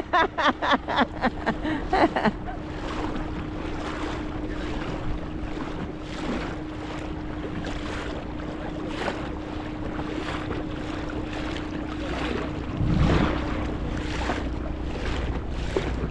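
Small dinghy outboard motor running at a steady speed under way, with wind buffeting the microphone and water rushing past the hull. A quick series of sharp pulses sounds in the first two seconds, and a heavier gust hits the microphone about 13 seconds in.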